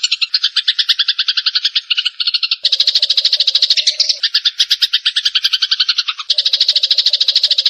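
Eurasian tree sparrows chattering: a fast, unbroken string of short, high chirps, about eight a second. The texture changes a couple of times as a second chattering layer joins in.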